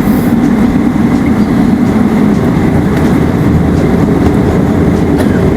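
Steady, loud cabin rumble of a Boeing 777-300ER taxiing onto the runway for takeoff, its GE90 engines running.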